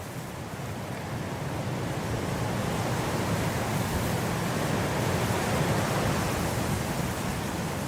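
Blizzard wind blowing, a steady rushing noise that swells into a stronger gust over the first few seconds and eases a little near the end.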